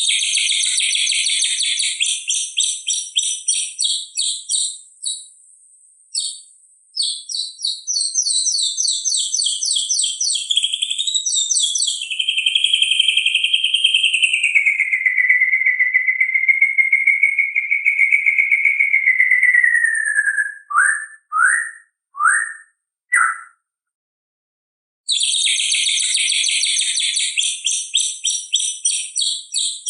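White-rumped shama (murai batu) singing: fast, high rattling trills, then a long wavering whistle that falls slightly, then four short downward-sweeping notes. After a short pause the same trill phrase starts again.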